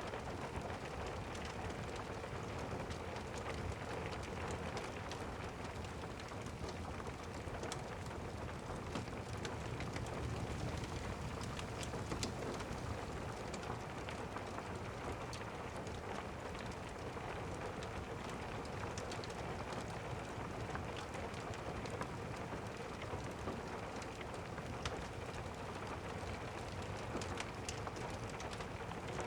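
Steady rain, an even hiss with many scattered sharp ticks of drops or crackles.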